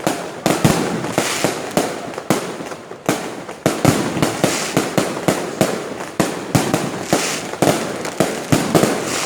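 Aerial fireworks bursting in quick succession, several loud bangs a second, each followed by crackling.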